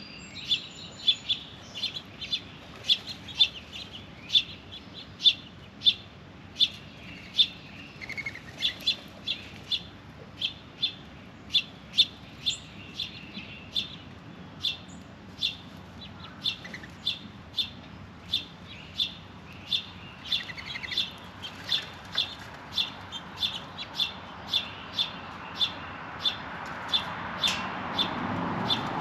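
A small songbird repeating a short, high chip note about twice a second, with a few fainter chirps from other birds. A rushing noise builds up near the end.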